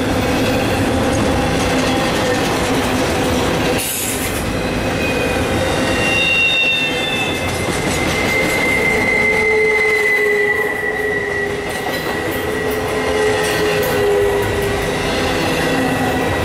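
Double-stack intermodal well cars rolling past on the rails: a steady rumble of steel wheels, with high squealing tones from the wheels that drift slowly in pitch. A single sharp clank about four seconds in.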